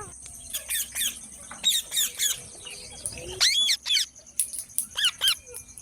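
Green parrot squawking: a run of short, sharp calls that swoop up and down in pitch, with a longer call about three and a half seconds in.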